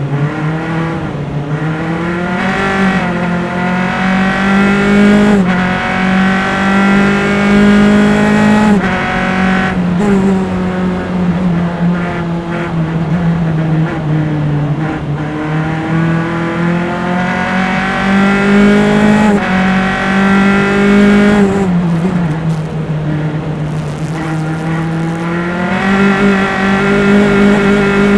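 Onboard recording of a single-seater formula race car's engine at racing speed, taken from engine-mounted microphones. The engine pitch climbs repeatedly and steps down suddenly at each gear change. About three-quarters of the way through the pitch drops as the car slows for a corner, then climbs again.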